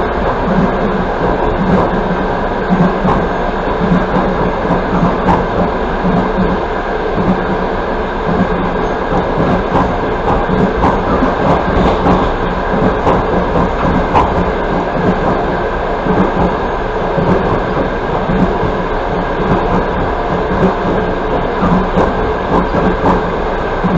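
Passenger train carriage running at speed on the rails: a steady rumble of wheels on track, with frequent light, irregular knocks and rattles, heard from inside the carriage.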